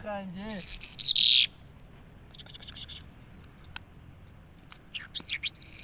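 A bird calling: a low wavering warble at the start, then a loud high note that falls in pitch about a second in, and near the end a run of quick high swooping notes.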